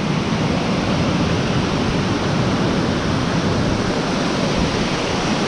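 Steady, unbroken rush of a river waterfall, water pouring over the drop close by.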